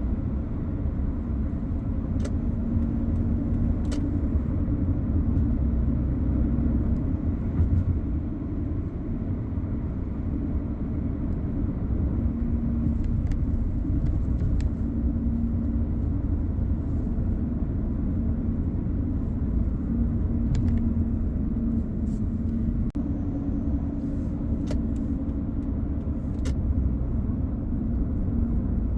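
Car driving at a steady pace: a continuous low rumble of engine and tyre noise, with a faint hum and a few scattered light ticks.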